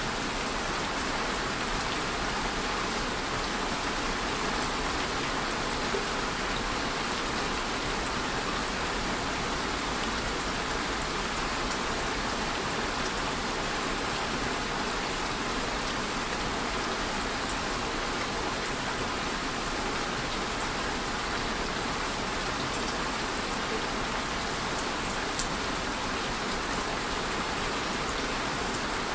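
Steady rain falling, with an even hiss and occasional single drops ticking a little louder.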